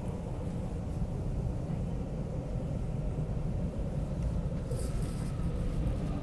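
An MTR Q-Train (CRRC Qingdao Sifang electric multiple unit) running, heard from inside the passenger car: a steady low rumble, with a faint steady high tone coming in about four seconds in.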